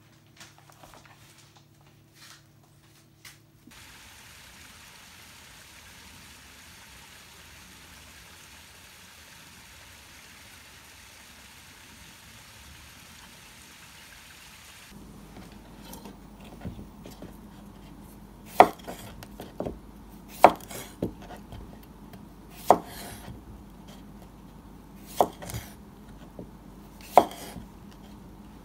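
Knife chopping on a cutting board, sharp single strikes about every two seconds with a short ring, through the second half. Before that, a steady hiss.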